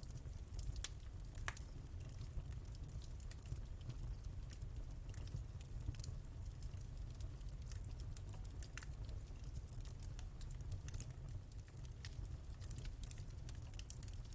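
Wood fire in a fireplace crackling: many small irregular pops and snaps, a few sharper ones, over a steady low rumble of the burning.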